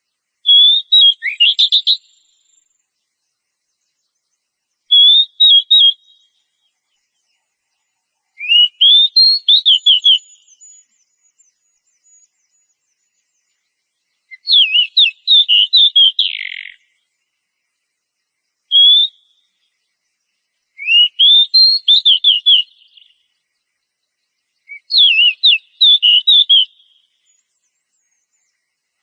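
Oriental magpie-robin (kacer) singing: seven short phrases of rapid, high whistled notes, some opening with a rising sweep, each lasting one to two seconds and separated by a few seconds of silence.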